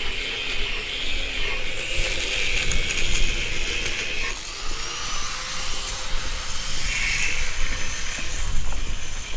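Steady outdoor ambient noise with a low rumble underneath, and a faint thin whistling tone about halfway through.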